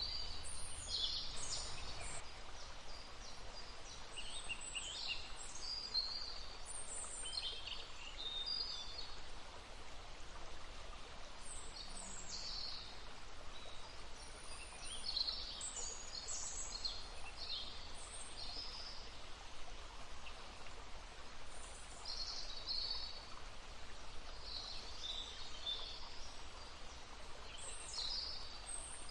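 Songbirds chirping and trilling in short, high phrases, one after another, over the steady babble of a brook.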